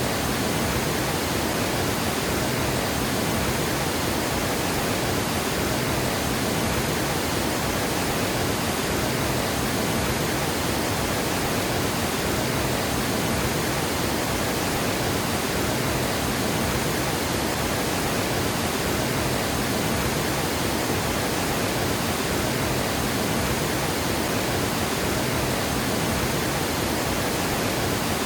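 Water pouring over a river dam: a steady, dense rushing roar with no breaks or changes.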